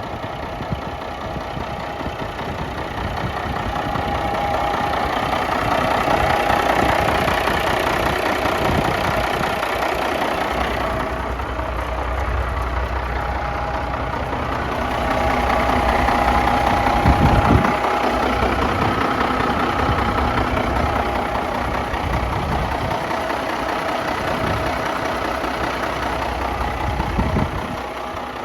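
1998 Ford water truck's engine idling steadily. Two brief low knocks come partway through and near the end.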